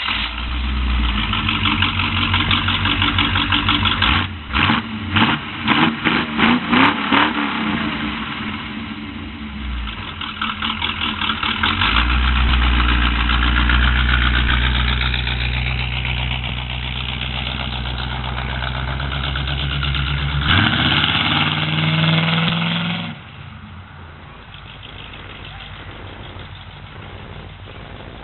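GM V8 engine running and revved: a quick series of throttle blips a few seconds in, then a long steady run, a higher-pitched stretch, and a sudden drop to a much quieter sound about 23 seconds in.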